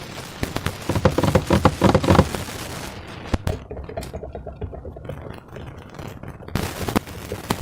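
Slime being squeezed and worked by hand, with bursts of rapid crackling and popping, loudest in the first two seconds, and a single sharp click about three seconds in.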